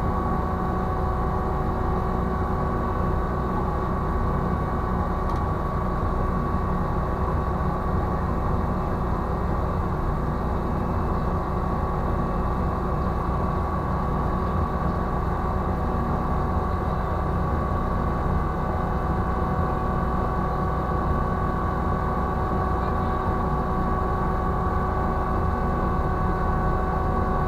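Ship's deck crane machinery running steadily during a yacht lift: a deep, even rumble with a constant high whine over it.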